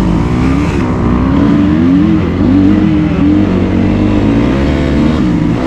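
Dirt bike engine being ridden, its pitch rising and falling several times as the throttle is opened and eased off.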